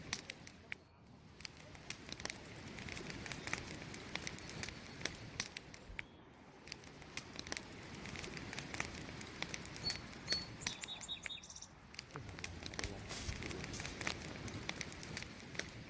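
A wood campfire burning, crackling with many irregular sharp pops and snaps over a steady hiss. A brief high chirp sounds about ten seconds in.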